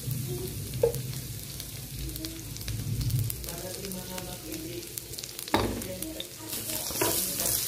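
Chopped garlic and red onion frying in oil in a wok, a steady sizzle, with a few short knocks along the way.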